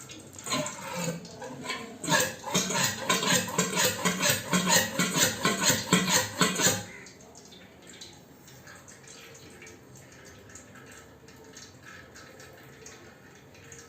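Old fork oil glugging out of a Bajaj Pulsar front fork tube into a drain tray in rapid, regular gulps as the leg is tipped over to drain. About seven seconds in the flow stops, leaving only faint dripping.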